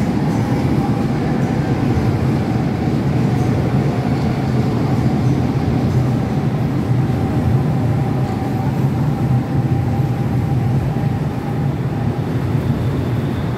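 Manila LRT-1 light-rail train rolling past the platform as it pulls into the station: a steady, loud rumble of steel wheels on rail with a faint electric whine that fades out about three-quarters of the way through.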